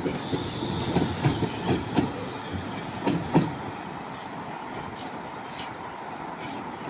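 Stockholm Metro train running on the rails, its wheels knocking over rail joints several times in the first three and a half seconds, then a steadier, quieter rumble.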